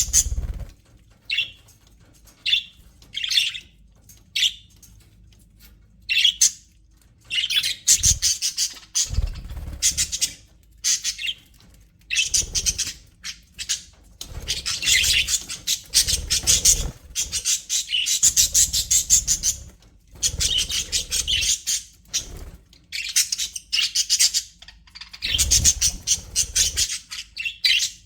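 A flock of budgerigars chattering and warbling in rapid, high chirps. For the first several seconds there are only a few short single chirps; then the chatter runs almost without a break, pausing only briefly.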